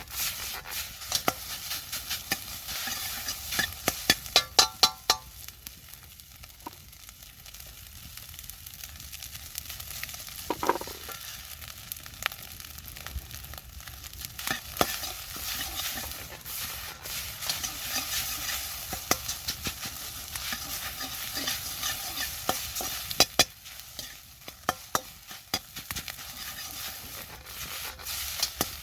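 Fried rice being stir-fried in a wok: a steady sizzle under the repeated clicks and scrapes of a utensil against the pan, with a quick run of sharp clinks about four to five seconds in.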